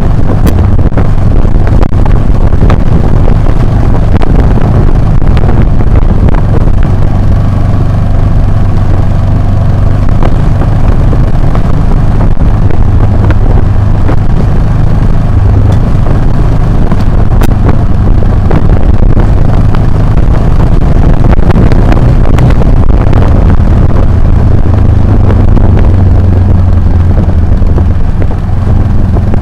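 Motorcycle engine running steadily under way off-road, with wind buffeting the action camera's microphone and frequent short knocks from the rough ground. The engine hum swells louder in the second half.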